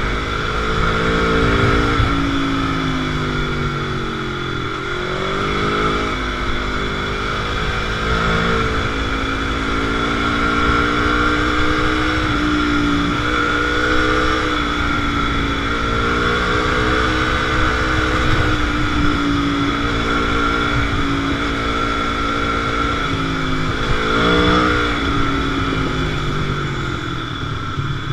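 Motorcycle engine running under way, its pitch falling and climbing again several times as the rider rolls off and opens the throttle.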